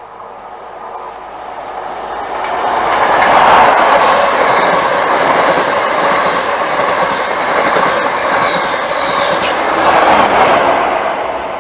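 High Speed Train (InterCity 125) with Class 43 diesel power cars and Mark 3 coaches passing at speed. The noise of engine and wheels on rail builds over the first few seconds, holds as the coaches go by, and swells again near the end as the rear power car passes, then starts to fade.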